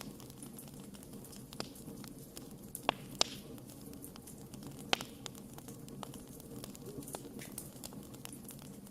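Wood campfire crackling, with scattered sharp pops, the loudest a pair about three seconds in and another just before five seconds, over a steady low rumble of the burning fire.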